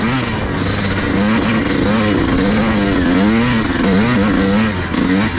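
Pit bike engine revving up and down repeatedly as the bike is ridden through mud, its pitch rising and falling about every half second.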